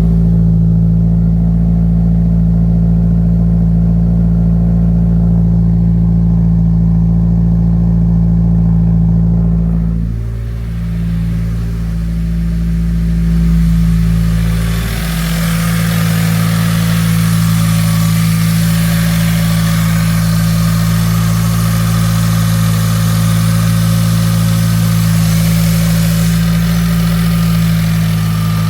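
Subaru WRX's turbocharged flat-four idling steadily, freshly restarted after sitting for almost a week. It dips briefly about ten seconds in, and a brighter hiss joins the idle from about halfway.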